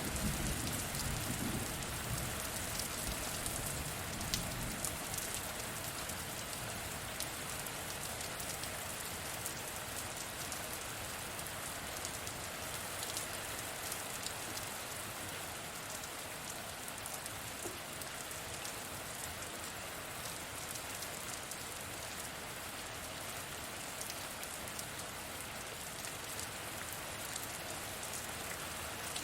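Steady heavy rain, a dense even hiss with many individual drops ticking through it. A low rumble of distant thunder fades out over the first few seconds.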